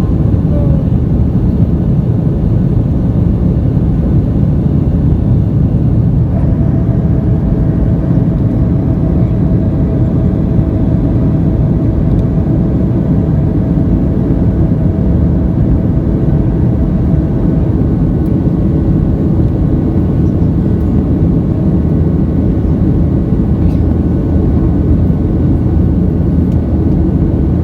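Airliner cabin during takeoff and climb: steady, loud jet-engine and airflow noise, mostly low in pitch. A faint steady tone sits above it for about ten seconds in the middle.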